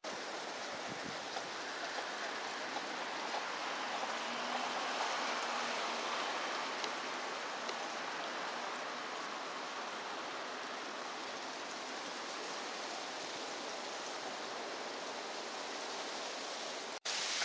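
Steady rushing noise of running water, even and unbroken, with a brief cut-out near the end.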